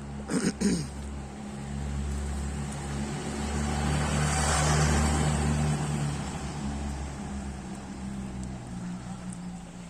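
A car drives past, its engine and tyre noise swelling to a peak about halfway through and fading again, over a steady low engine hum.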